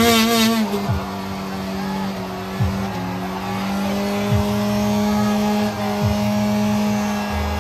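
A car engine held at steady high revs, with a brief wavering squeal right at the start.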